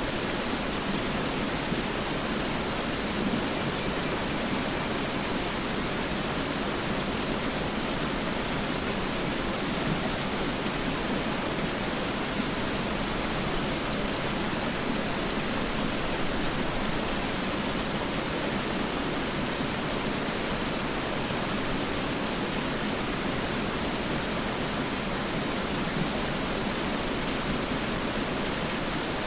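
Mountain river rushing steadily over rocks, an even hiss of flowing water that never changes.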